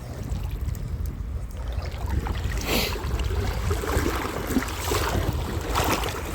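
River water sloshing and swishing around legs wading through a river, in several surges, over a steady low rumble of wind on the microphone.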